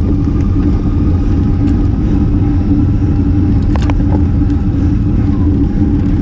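Steady loud wind rumble on an action camera's microphone while riding a road bike at race speed, with a couple of short clicks about four seconds in.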